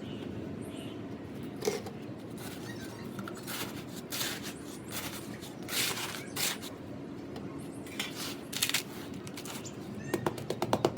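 Gritty sand-cement mixture being worked by hand, with scattered crunches and scrapes. About a second before the end, a quick, even run of light taps begins, several a second.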